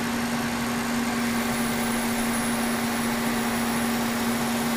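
Kearney & Trecker 2HL milling machine, rigged as a lathe, running under power feed with a steady hum while it takes a light finishing cut of about eight thousandths.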